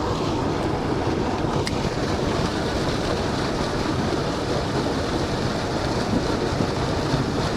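Water pouring over a small creek spillway: a loud, steady rush of whitewater.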